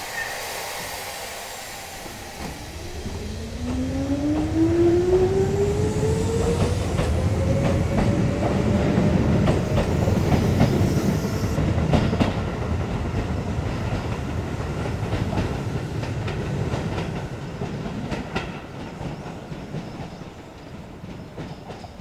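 An electric train pulling out of a station. Its inverter-controlled traction motors give one smooth whine that rises in pitch for several seconds as it accelerates. Wheel and rail noise with clicks over the rail joints swells under the whine and fades away near the end.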